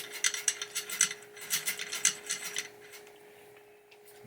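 Pinball drop target assembly parts being worked back and forth by hand to spread fresh oil, making a quick run of light clicks and clacks that stops about two-thirds of the way through. A faint steady hum runs underneath.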